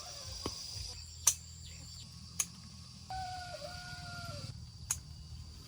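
A rooster crows once, about three seconds in: a long held call that drops in pitch near its end. It sounds over a steady high insect drone, and three sharp clicks are the loudest sounds.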